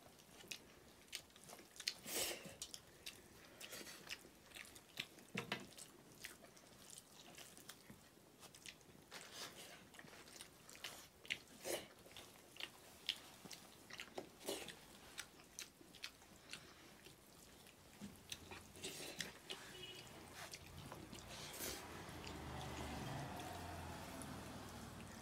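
Several people chewing and eating rice and buffalo meat by hand, with frequent short smacks and clicks of mouths and fingers. A low, even rustling noise swells near the end.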